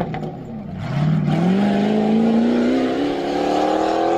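Jeep Grand Cherokee rally car's engine accelerating: its note drops off briefly at the start, then climbs steadily in pitch for over three seconds.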